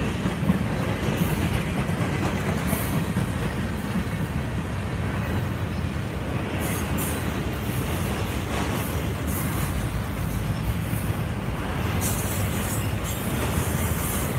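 Freight train of autorack and tank cars rolling past at speed: a steady rumble and clatter of steel wheels on rail, with brief high-pitched wheel squeals several times.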